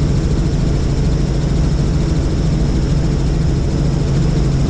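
Tour helicopter in flight: a steady, unbroken drone of rotor and engine with a strong low hum.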